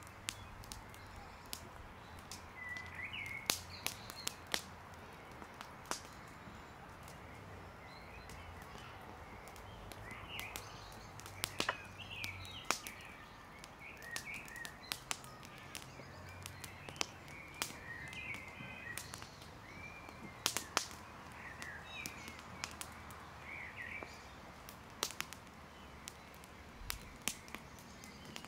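Small birds chirping on and off, over many irregular sharp cracks and snaps from a burning wood campfire.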